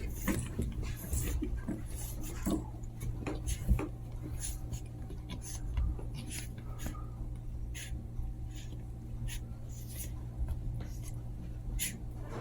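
Two Chihuahua puppies scuffling at play: scattered light scratches and taps of paws and claws, over a steady low hum.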